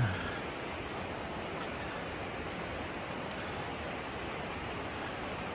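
Steady rush of a snowmelt-fed mountain river running through a rocky gorge, with a brief low thump at the very start.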